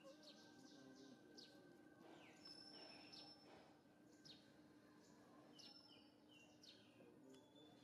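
Faint outdoor ambience: birds chirping in the background, a string of quick falling chirps repeated every second or so, over a faint steady hum.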